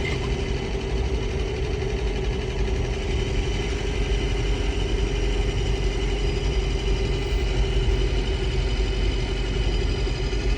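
A 2024 Chevy Colorado ZR2's 2.7-litre turbocharged four-cylinder engine idling steadily. This is the engine whose rattle the owner is recording.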